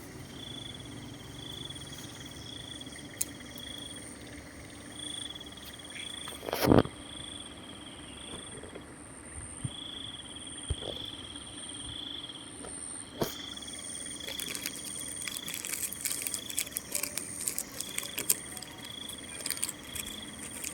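A dog crunching biscuits, with a thick run of crackly crunching clicks in the second half and a single louder knock about a third of the way in. Behind it runs a steady, pulsing high trill.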